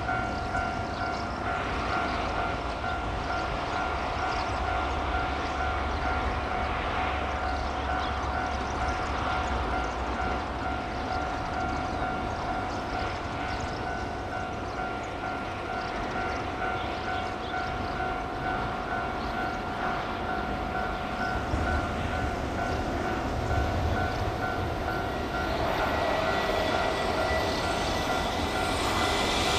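A steady outdoor rumble with two faint steady tones, then an approaching JR Freight EH200 electric locomotive hauling tank wagons, its running noise growing louder over the last few seconds.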